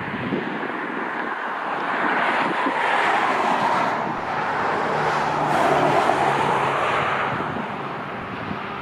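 A vehicle passing by, its noise swelling for a few seconds and fading again.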